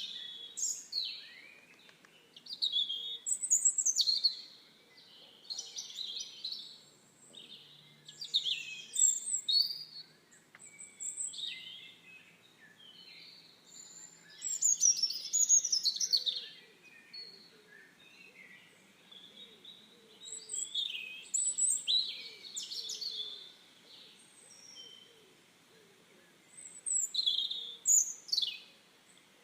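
Birds singing: short bursts of quick, high chirps and downward-sweeping notes every second or two, with brief pauses between phrases.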